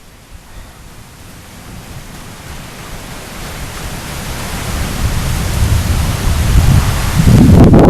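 Thunderstorm wind and rain noise: a steady hiss that swells gradually over several seconds, ending in a loud gust buffeting the microphone.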